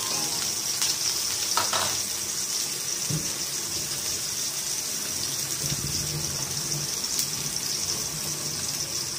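Chopped onion and garlic sautéing in a little oil in an aluminium stockpot: a steady sizzle.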